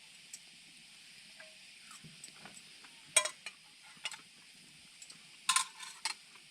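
Several sharp metallic clinks of utensils against camp cookware over a steady faint hiss, with the loudest cluster of knocks near the end.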